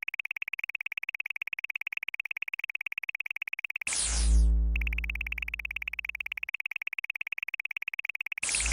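Synthesized game sound effects: a rapid, evenly pulsing high electronic beep, broken about four seconds in and again near the end by a loud hit, a falling sweep over a deep synth boom that fades away over a couple of seconds.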